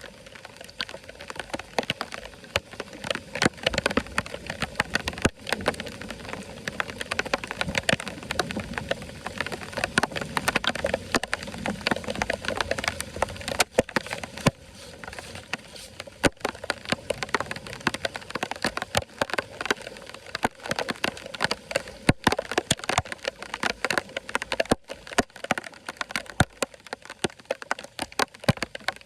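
Water running steadily, with a constant irregular patter of sharp clicks and crackles over it.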